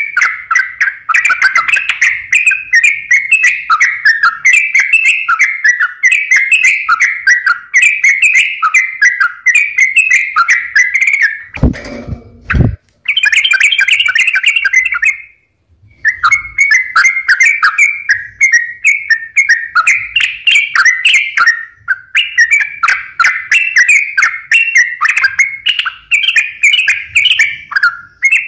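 Yellow-vented bulbul (trucukan) singing loud, rapid, bubbling chattering phrases over and over. The phrases are interrupted once by a short noisy crackle at about twelve seconds, and by a brief silence a few seconds later.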